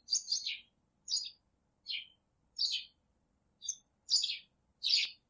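Songbird chirping: about seven short, bright chirps, each a quick fall in pitch, spaced roughly half a second to a second apart.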